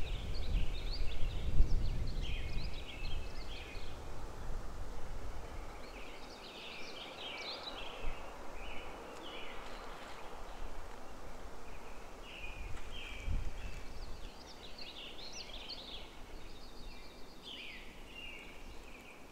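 Songbirds singing short high phrases one after another, with a low rumbling noise in the first few seconds and again briefly about thirteen seconds in.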